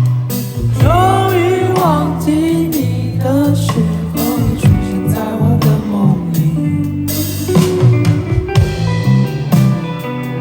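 Live indie rock band playing an instrumental passage: guitars over bass and drums, with a lead line bending up and down in pitch in the first few seconds.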